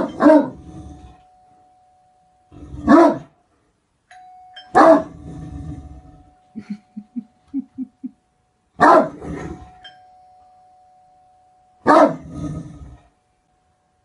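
A large dog, a Great Dane, barking deeply: single and doubled barks about every three seconds, five in all, with a quick run of short low huffs in the middle. A faint steady tone hums between some of the barks.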